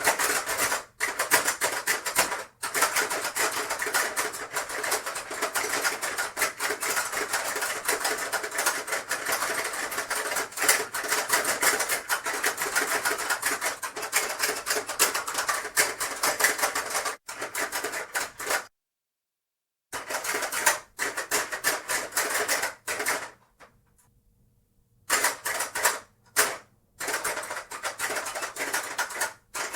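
Hungry Hungry Hippos board game being played: rapid, dense clattering of the plastic hippos' levers and jaws snapping and marbles rattling on the plastic board. The clatter runs without a break for over half of the stretch, stops dead for a moment, then comes back in shorter bursts with pauses between them.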